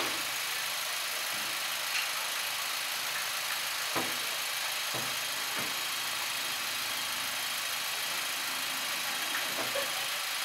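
Honda Civic Type R FK8's turbocharged 2.0-litre four-cylinder idling steadily on a hub dyno, with a few faint clicks.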